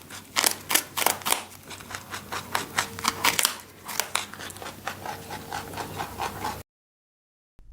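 A woodland animal's sound: quick, irregular sharp clicks and scratchy scraping, stopping abruptly about a second before the end.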